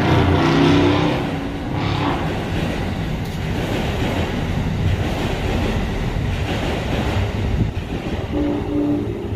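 Commuter rail train's coaches rolling along the track directly below, a steady loud rumble of wheels on rail, with brief pitched tones about half a second in and again near the end.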